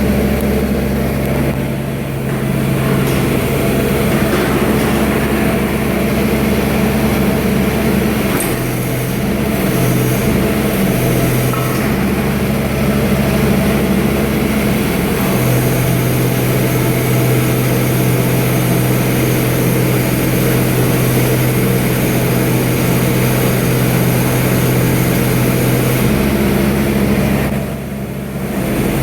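Bobcat 322 mini excavator's 15.7 hp Kubota diesel running steadily, its note shifting several times as the hydraulics take and release load while the retractable undercarriage tracks are drawn in narrower.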